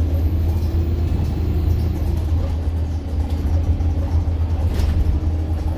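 Bus engine and road rumble heard from inside a moving double-deck bus: a steady low rumble with a droning tone that settles slightly lower about two seconds in.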